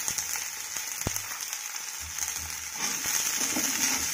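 Green peas and chopped onion frying in hot oil in a kadhai: a steady high sizzle, with a sharp click about a second in, as of the metal slotted ladle tapping the pan. The sizzle grows a little louder near the end as the peas are stirred.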